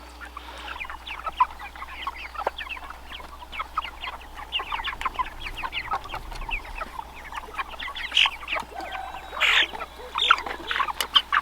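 A flock of chickens clucking and chirping, many short overlapping calls at once.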